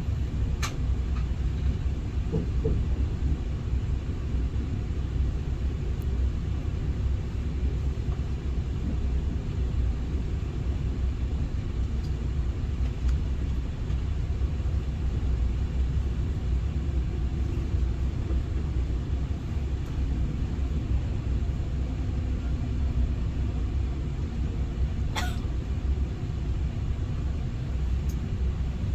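Steady low rumble of an SRT 120000-series high-speed train running, heard inside the passenger car, with a couple of brief faint clicks about a second in and near the end.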